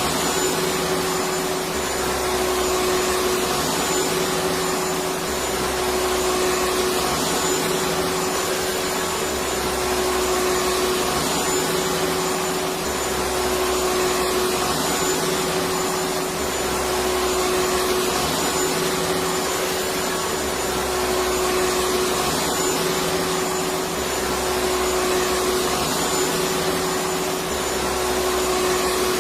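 Vacuum cleaner running steadily: a continuous rushing hum with a steady whine, swelling slightly every few seconds in an even repeating pattern.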